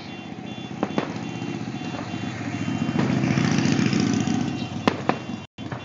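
Fireworks display: several sharp bangs of shells bursting, with a rumbling, crackling swell in the middle of the stretch.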